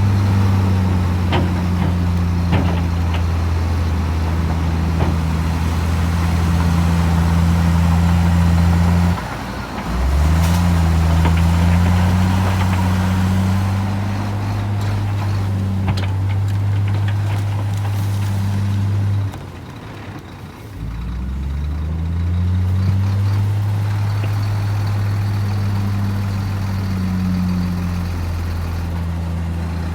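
Heavy diesel engine of earthmoving machinery running with a steady low drone. It eases off twice, about a third and two thirds of the way through, then revs back up each time, with a few faint clanks on top.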